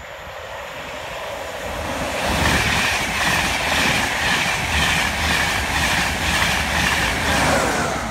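InterCity 225 express (Mark 4 coaches with a Class 91 electric locomotive) passing non-stop at speed. The rushing noise builds over the first two seconds, then holds loud with a steady beat of wheels over the rail, about two a second, as the coaches go by. Near the end the locomotive passes with a falling tone, and the noise begins to drop away.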